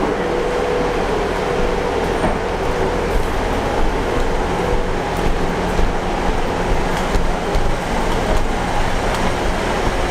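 A train running at the station platform: a steady, loud engine and rail rumble with no distinct events.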